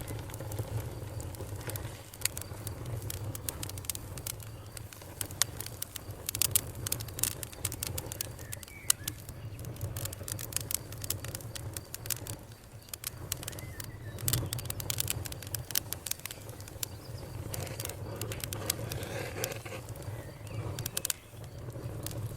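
Wood campfire crackling: frequent sharp, irregular pops and snaps over a steady low rumble. A few faint bird calls come in and out.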